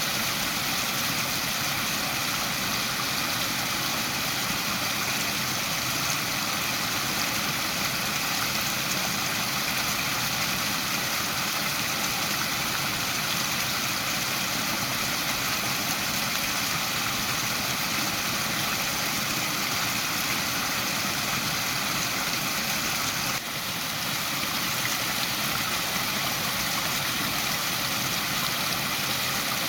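Waterfall: the steady rushing hiss of falling water, even and unbroken, dipping briefly in level about three-quarters of the way in.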